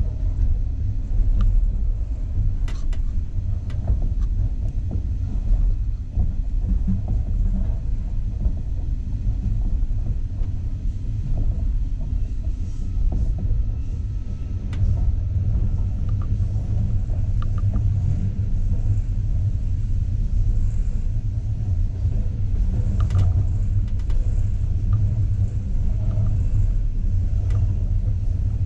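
Steady low rumble of a Russian passenger train running along the track, heard from inside the carriage, with a few faint clicks and knocks.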